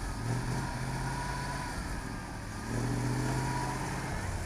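ZIL-131 military truck's V8 petrol engine running, its note swelling twice: just after the start and again for about a second near the three-second mark.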